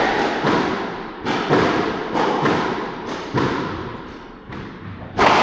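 A squash ball struck back and forth in a warm-up rally: sharp racket hits and ball smacks off the court walls, about one to two a second, each ringing in the court's echo.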